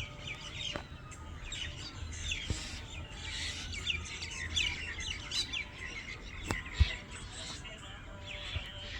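Small birds chirping rapidly and without pause, many short high calls overlapping. A few soft knocks are heard, and one sharper thump just before seven seconds in.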